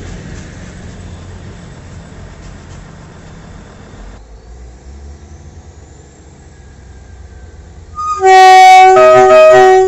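A train's horn sounds loudly for under two seconds, about eight seconds in, over a low rumble from the train. A second note joins the first about a second after it starts, making a two-tone chord.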